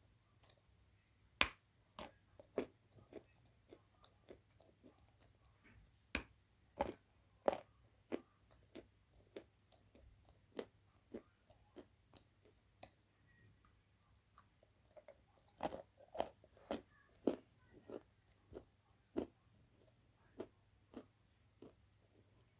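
Dry blue clay being bitten and chewed: a string of sharp, short crunches, about one or two a second, coming thicker near the end.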